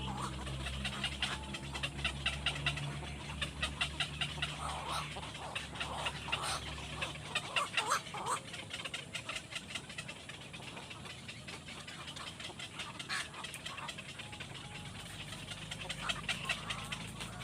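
Domestic birds calling in short, repeated sounds, over a steady low hum that fades out about seven seconds in.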